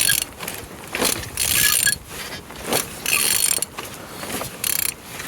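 Vauxhall/Opel Z18XER 1.8 litre four-cylinder petrol engine being turned over by hand with a ratchet wrench on the crankshaft: repeated strokes about once a second, ratchet clicking and the engine's internals turning. It turns freely, the sign of an engine that is not seized.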